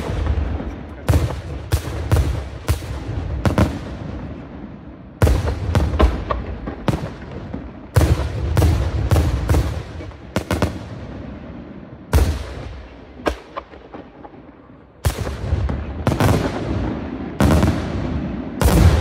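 Aerial firework shells bursting in rapid volleys of sharp bangs, about five groups a few seconds apart, each bang trailing off in a rolling echo.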